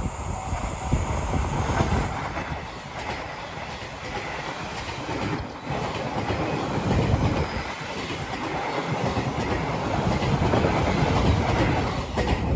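Train running through a level crossing, its wheels clattering over the rail joints in a rapid repeating clickety-clack over a continuous loud rumble.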